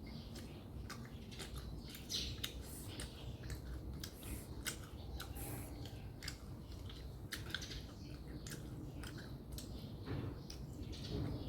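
A person chewing food close to the microphone: irregular soft, wet mouth clicks and smacks.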